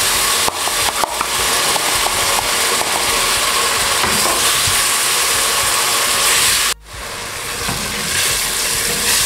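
Tomato puree hitting hot oil and browned meat in a stainless-steel pot, sizzling loudly and steadily, with a few light taps of a wooden spoon on the pot in the first few seconds. The sizzle drops out suddenly for a moment about seven seconds in, then carries on a little quieter as it is stirred.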